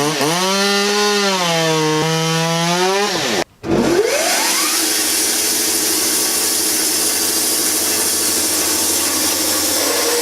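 Husqvarna 550 XP two-stroke chainsaw cutting into a pine log, its engine pitch sagging under load and recovering. There is a brief break about three and a half seconds in. Then a saw revs up and runs steadily through wood.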